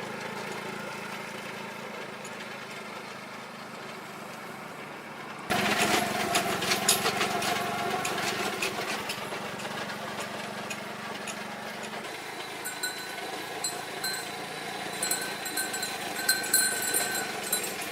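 A small engine running steadily. About five seconds in, the sound jumps louder with dense rattling and clatter over the engine, and in the second half high ringing tones come and go.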